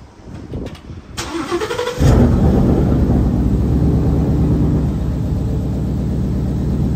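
2016 Ford Mustang GT's 5.0-litre V8, freshly filled with new oil, is cranked by its starter and fires about two seconds in with a loud start-up flare. It then settles into a steady idle.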